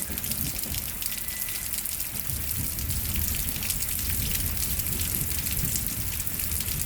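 Heavy rain pouring down with a steady hiss, and thunder rumbling low underneath.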